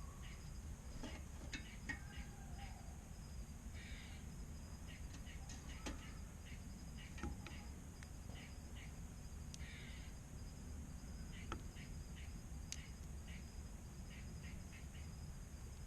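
Faint outdoor evening ambience: a steady high-pitched insect drone over a low rumble, with scattered short bird chirps and clicks.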